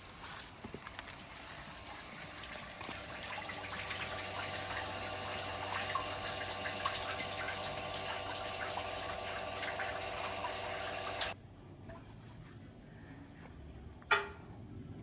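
Water pouring and splashing over a steady low hum, which cut off abruptly about eleven seconds in; a single sharp click near the end.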